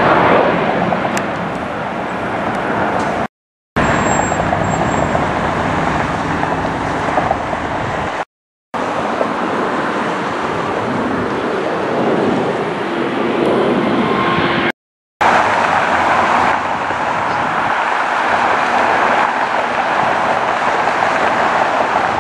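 Jet airliner engine noise, a loud steady rushing sound, in four short clips broken by three brief silent cuts.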